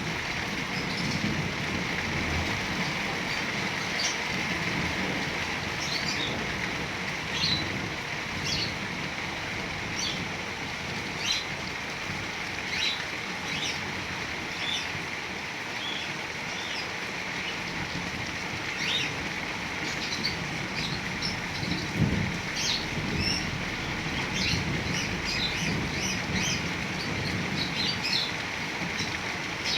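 Steady heavy rain with birds chirping again and again over it, plus a single brief low thump about two-thirds of the way through.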